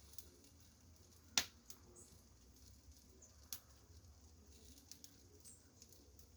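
A few sharp clicks or taps, the loudest about a second and a half in and another about two seconds later, with a couple of faint, very short high chirps from small birds.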